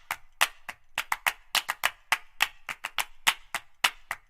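A rapid, uneven series of sharp taps or claps, about five a second, each one short and crisp.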